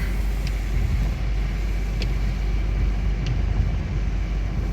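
Steady low road rumble of a moving car heard from inside the cabin, with three faint short ticks.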